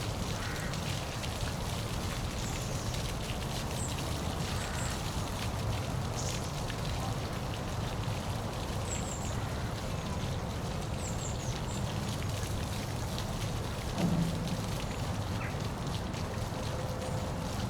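Steady rushing of falling water from a waterfall, heaviest at the low end, with a few faint, short, high chirps now and then. A brief low thud comes about three-quarters of the way through.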